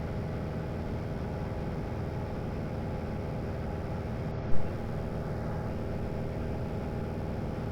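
Small propeller airplane's piston engine and propeller droning steadily in the cabin in flight, with one brief loud pop about halfway through.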